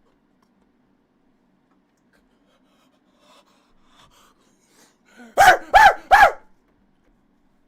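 Three loud, short vocal yelps in quick succession, each rising and falling in pitch, about two thirds of the way in, after a few seconds of near quiet with a faint low hum.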